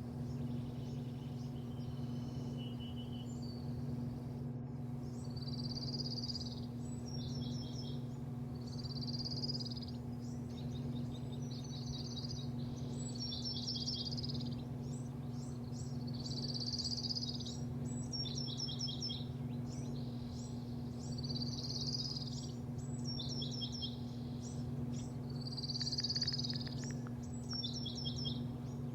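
A bird singing the same short high phrase every few seconds, a slurred note then a quick run of falling notes, over a steady low machine hum.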